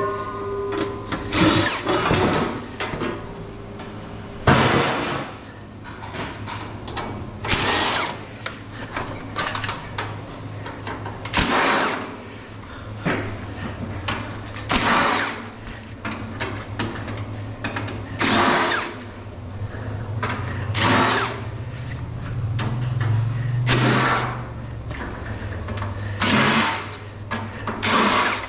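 Power drill running in short bursts, backing screws out of an air conditioner's sheet-metal casing. The bursts come about every two to four seconds over a steady low hum.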